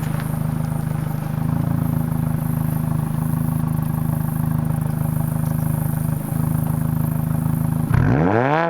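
2004 Mini Cooper R50's 1.6 L Tritec SOHC four-cylinder idling steadily through a straight-piped exhaust, then revving sharply upward near the end.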